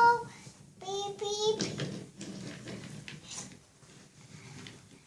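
A toddler's high-pitched wordless vocalizing, heard at the very start and again as a longer sound from under a second in, followed by quieter scattered noises.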